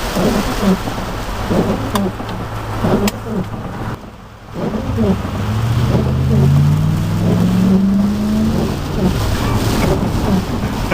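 Heavy rain drumming on a Chevy pickup with water spray from a flooded road. About four seconds in, the noise drops away briefly, then the truck's engine revs up, rising steadily in pitch for a few seconds before easing off.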